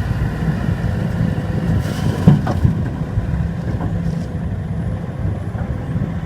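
Heavy diesel engines of an excavator and dump trucks running with a steady low rumble, with a couple of sharp knocks and a short squeal about two seconds in.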